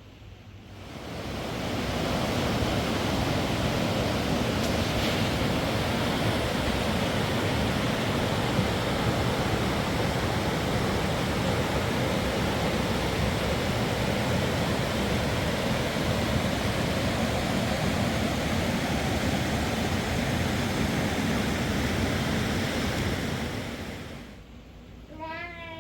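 Steady, even rushing noise that fades in over the first couple of seconds, holds level, and fades out near the end; a short voice is heard just after it fades.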